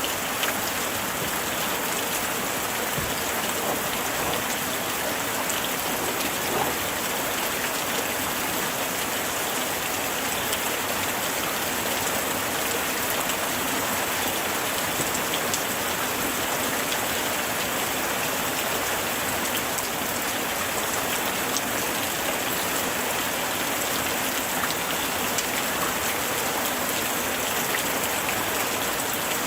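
Light rain falling steadily, a dense patter of drops hitting surfaces, even throughout.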